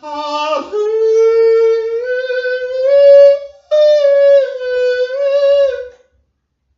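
A lone voice singing long, wordless held notes, the pitch stepping slowly up and then down. It breaks briefly about three and a half seconds in and stops about six seconds in.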